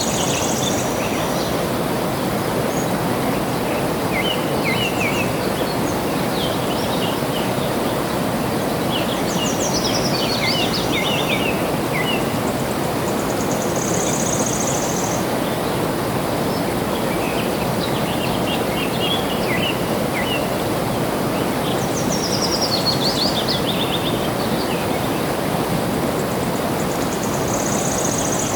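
Steady rush of flowing water with birds singing over it: scattered chirps, a descending trilled phrase about ten seconds in and again about twenty-two seconds in, and a short high buzzy call three times, roughly fourteen seconds apart.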